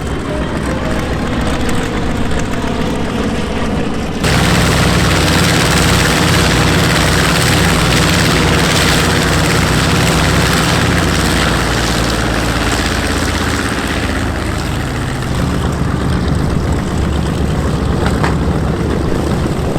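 Radial piston engines of a World War II propeller aircraft running loud and steady. They come in abruptly about four seconds in, after a quieter opening, and their pitch shifts about three-quarters of the way through.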